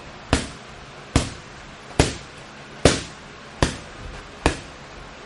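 Boxing punches landing one after another in an even rhythm, a sharp smack about every 0.8 seconds, six in all.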